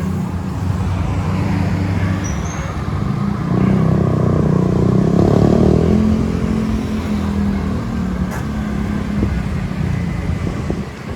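Road traffic heard from a bicycle: a motor vehicle's engine running close by, swelling to its loudest about four to six seconds in and easing off after.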